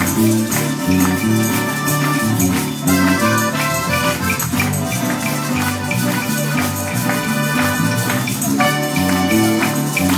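Live Mexican popular music: accordion and guitars over a bass line that steps from note to note, with tambourines keeping a steady beat.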